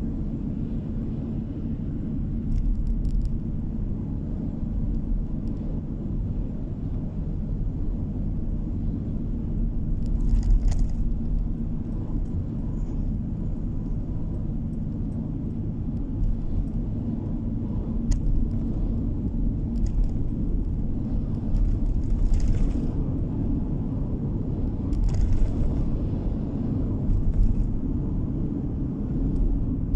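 Car driving at road speed, heard from inside the cabin: a steady low rumble of tyres and engine, with a few brief louder swishes spread through.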